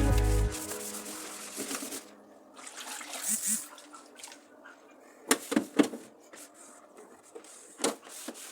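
Background music cuts off half a second in. A quiet stretch of faint handling noise follows: a short hiss, then a few sharp clicks and knocks, a cluster about five and a half seconds in and one more near eight seconds.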